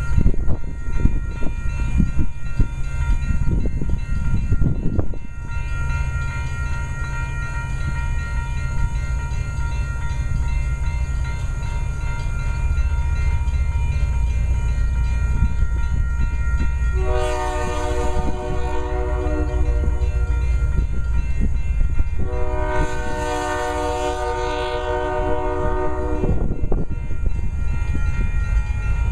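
Diesel freight locomotives, led by an EMD SD38-2, running with a steady low rumble, with some knocking in the first few seconds. The lead locomotive's multi-chime air horn sounds two long blasts, one just past the middle and one a few seconds later, and a third starts at the very end.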